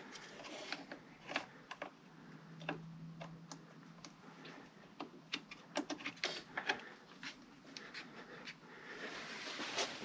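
Scattered light clicks and knocks with some rustling, and a brief low hum about two seconds in; no engine is heard running.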